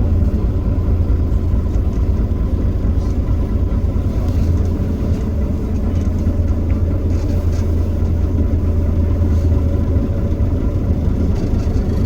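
Heuliez GX327 city bus's Iveco Cursor 8 six-cylinder diesel running steadily with a deep, even drone and no hard acceleration.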